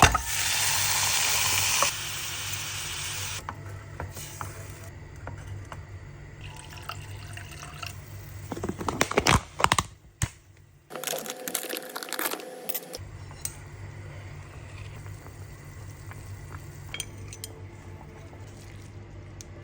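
Kitchen work sounds: water running for about two seconds, then a steady low hum with scattered clinks of dishes and utensils, and a burst of clattering about nine seconds in.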